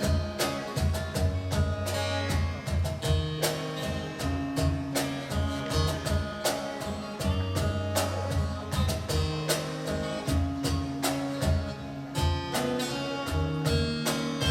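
A live band playing an instrumental passage with no singing: guitars and keyboard over steady drum beats.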